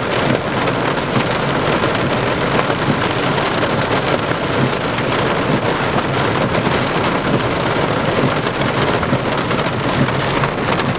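Heavy rain pouring steadily, with a little pea-size hail mixed in.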